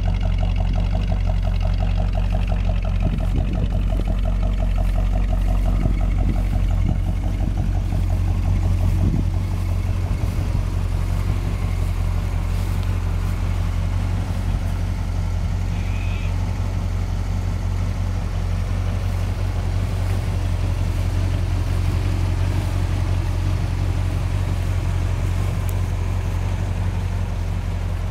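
Holden 308 V8 in a 1977 HX Statesman Caprice idling steadily, with a deep, even exhaust burble. The exhaust pulses stand out more for the first eight or nine seconds, then settle into a smoother hum.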